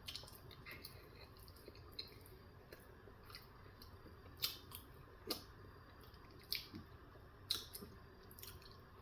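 A person chewing a bite of a steak, egg and cheese bagel close to the microphone: faint, irregular wet mouth clicks, with a few sharper ones in the second half.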